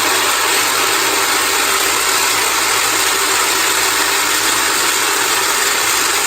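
Small baby-food blender running loud and steady, chopping onions, spring onions, sweet pepper and thyme for a jerk seasoning.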